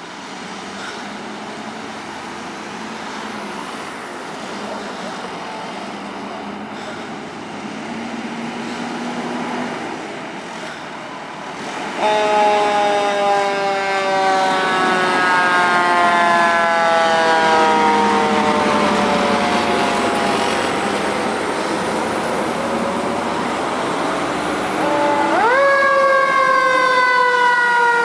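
Siren of a responding Seagrave fire engine. It comes in loud about halfway through and winds slowly down in pitch, then rises sharply near the end and falls slowly again. Before it there is the rising noise of traffic and an approaching engine.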